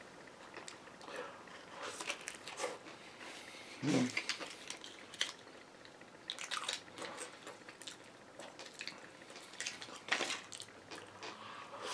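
Close-miked chewing of a chicken sandwich: soft wet mouth smacks and small clicks scattered throughout, with a brief low hum about four seconds in.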